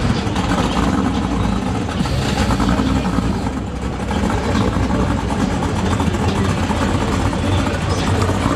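GM LS V8 engine swapped into an Oldsmobile 442 running steadily, a low rumble with no clear revs.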